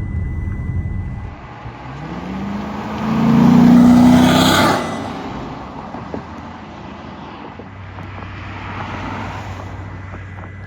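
A road vehicle drives past, its engine rising in pitch as it approaches. It is loudest about four seconds in and then fades quickly.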